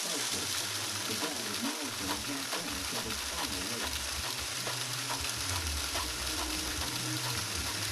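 Scale model car wash running: a steady hiss with faint scattered ticks and a low uneven hum underneath.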